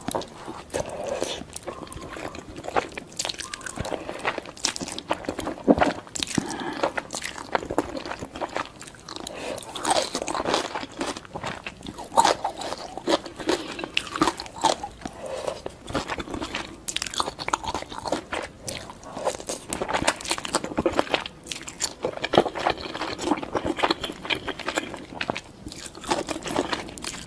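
Close-miked eating: a person biting into and chewing crunchy food, with a steady run of irregular crisp crunches and mouth sounds.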